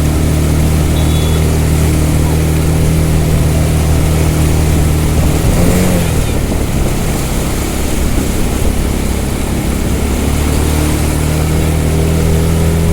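An engine running steadily. Its note falls away and wavers about halfway through, then settles back to a steady hum a few seconds later, over a constant rushing hiss.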